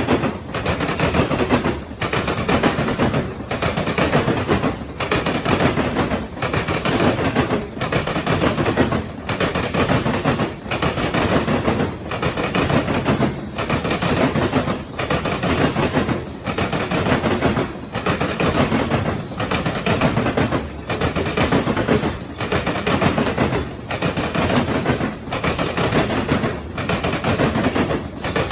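Freight car wheels of a grain train pounding over a railroad diamond crossing: a dense, loud clatter of wheel impacts that repeats car after car, with a short dip about every second and a half between cars.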